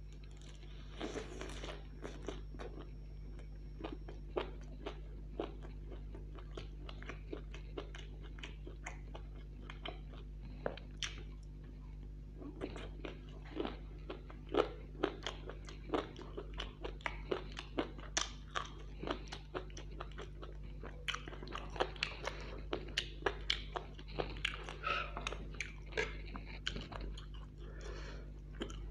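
Close-up eating sounds: a fried chicken drumstick bitten and chewed, many short crunches and wet mouth clicks. A steady low hum runs underneath.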